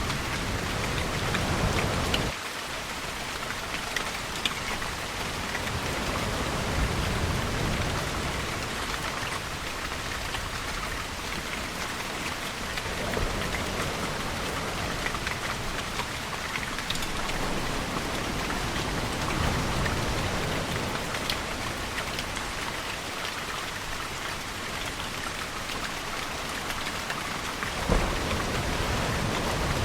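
Steady rain falling, with low rumbles of distant thunder and surf swelling and fading every several seconds. A low rumble cuts off abruptly a couple of seconds in, and a sudden louder thump comes near the end.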